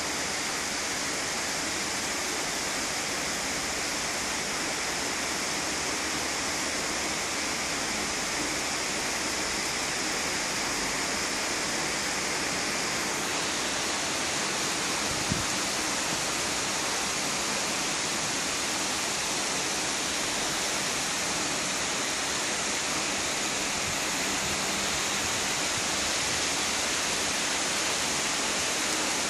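Heavy rain pouring down steadily, a dense even hiss. A single brief knock about halfway through.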